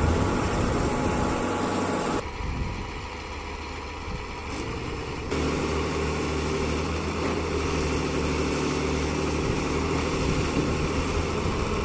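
Large diesel engine running steadily. It thins out about two seconds in and returns fuller about three seconds later.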